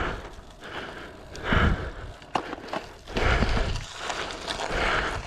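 Cyclist breathing hard while riding, a loud breath about every second and a half, with wind rumble on the microphone.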